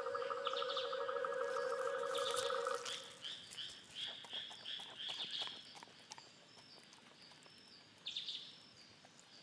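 Forest wildlife ambience. A steady, evenly pulsed low trilling call runs for about the first three seconds, then gives way to a run of short high bird chirps, several a second. These fade to faint background with one more brief chirp near the end.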